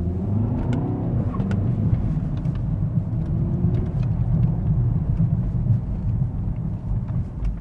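Mercedes-AMG S63 E Performance's 4.0-litre twin-turbo V8 driving on the road: its note climbs and drops back within the first second and a half, then it runs on as a steady low rumble, with a faint rise again about three seconds in.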